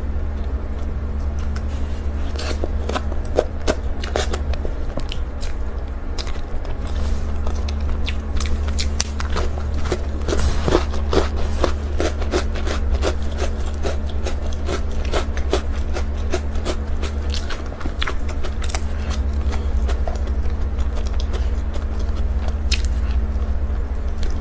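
Close-miked eating of Oreo cake: chewing and biting make many short crisp clicks and smacks, densest in the middle, over a steady low hum.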